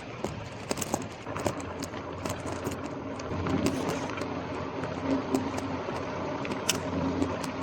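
Gravel bike rolling along a street: tyre noise with frequent sharp rattling clicks from the bike, growing louder, and a low steady hum from a vehicle engine that grows in about halfway through.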